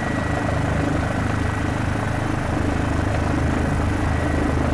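Police helicopter running steadily: a continuous rotor and engine noise with a thin, steady whine above it.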